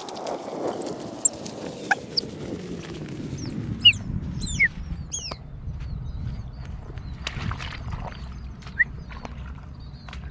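A bird giving several sharp, high calls that slide steeply downward, clustered in the first half, over low rustling and rumble. A thin, steady, very high tone comes in about halfway and holds.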